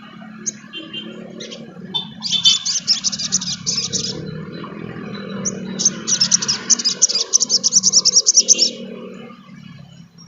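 Sunbird (sogon trotol) singing: a few sharp high chips, then two fast chattering trills of rapidly repeated notes, the second one longer, about three seconds. A low steady hum runs underneath.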